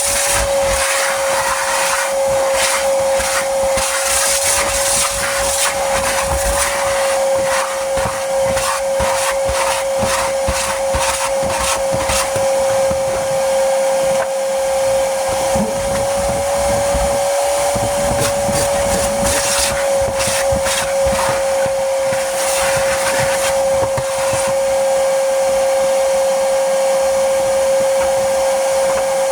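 Vacuum cleaner running steadily with a constant high whine, with many irregular clicks and rattles throughout.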